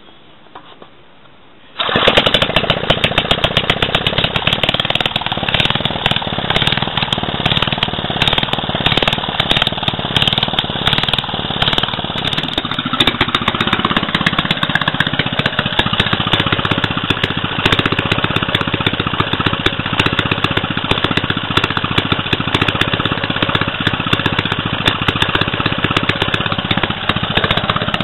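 Clinton 900 3 hp stationary engine starting about two seconds in and then running with a rapid, even firing beat. Its running note changes about halfway through as the speed settles.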